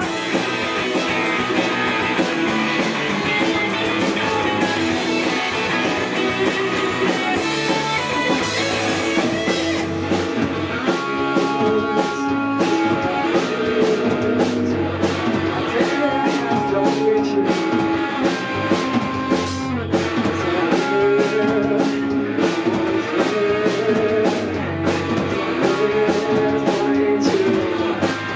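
Live rock band playing full out, with guitar and a drum kit keeping a steady beat.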